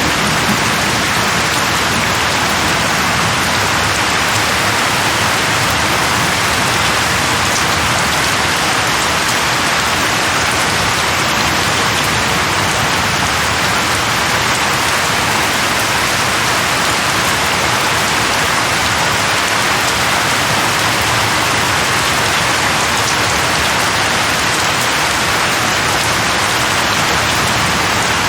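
Steady, loud rainfall, an even hiss of rain on surfaces with no letup or change.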